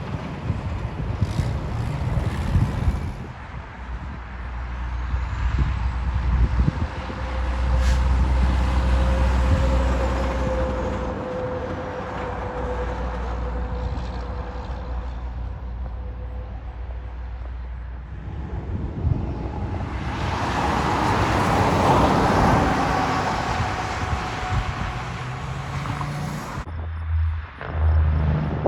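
Trucks driving past on a road, heavy engines rumbling with tyre and road noise, in passes that swell and fade; the loudest comes late on. The sound changes abruptly shortly before the end.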